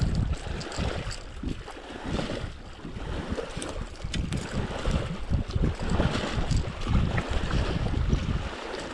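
Wind buffeting the microphone in uneven gusts, a heavy rumble that swells and fades, over a light hiss of water around the kayak.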